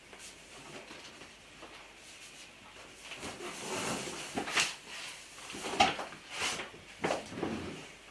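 Oil-based marker and hands rubbing on the skin of a large inflated latex balloon. There are irregular scrapes and squeaks, starting about three seconds in.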